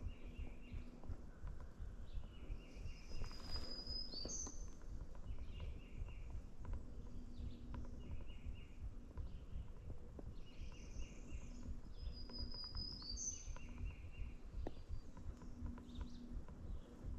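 Songbirds singing in spring woods. One bird repeats a short chattering phrase every couple of seconds, and another sings a higher song with a rising end twice, about ten seconds apart, over a low rumble. No turkey gobbles.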